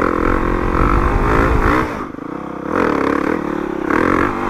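Dirt bike engine revving hard under throttle, easing off about two seconds in, then surging again twice.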